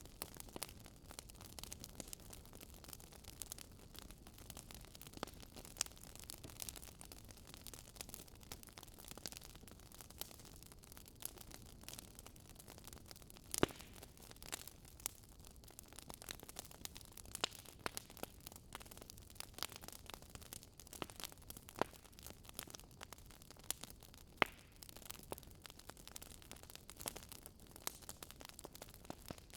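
Wood fire crackling, with frequent irregular snaps and a few louder pops over a low steady hiss.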